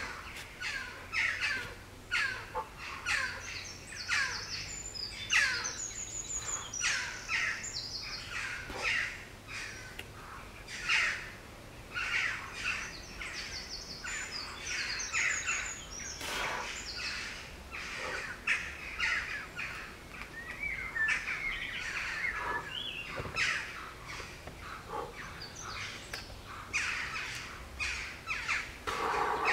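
Wild birds singing and calling continuously, a busy chorus of many short overlapping chirps, whistles and sweeping notes, with a few high rapid trills.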